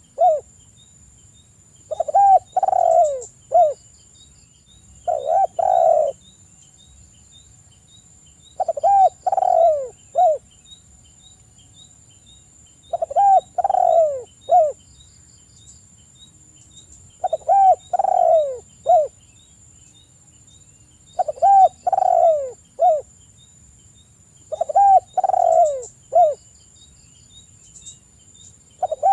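Spotted dove (tekukur) cooing: a phrase of two or three falling coos ending in a short clipped note, repeated about every four seconds.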